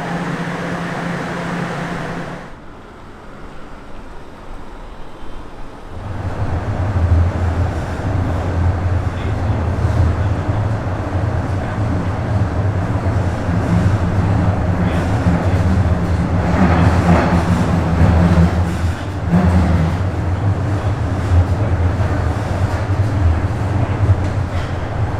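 Bombardier Toronto Rocket subway train running: a steady rumbling drive noise. It drops away briefly a few seconds in, then from about six seconds builds into a strong, steady low drone.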